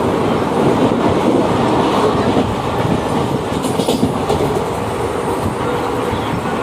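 Moving passenger train heard from inside the carriage: a steady rumble with the wheels clattering over the rail joints.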